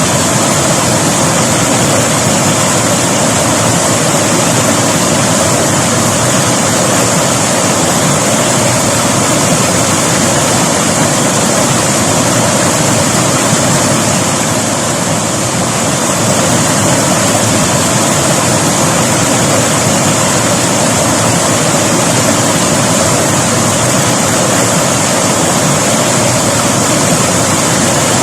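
River water rushing steadily over rocks, a loud, even rush of flowing water with no break.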